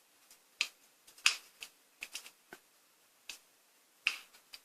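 Burning firewood crackling in a fireplace video: irregular sharp snaps and pops, about eight of them, with quiet gaps between.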